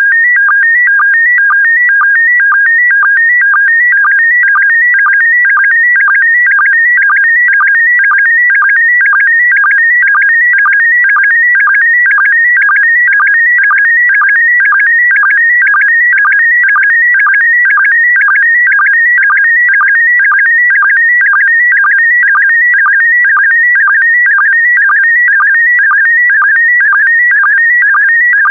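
Slow-scan TV image transmission in PD120 mode: a loud, continuous stream of high warbling tones carrying the picture, broken about twice a second by a short lower sync blip that marks each new pair of scan lines.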